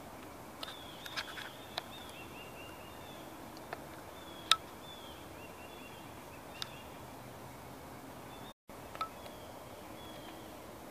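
Quiet woodland ambience with faint, short chirping bird calls repeating in the background and a handful of sharp clicks, the loudest about halfway through.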